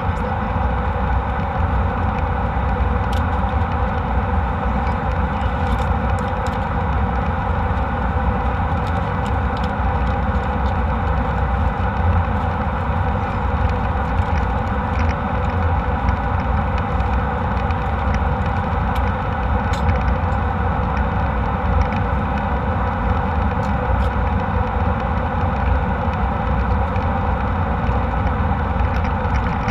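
Steady cabin noise inside an Embraer E190 jet airliner in flight: an even drone of the turbofan engines and airflow, heaviest in the low end, with no change in pitch or level.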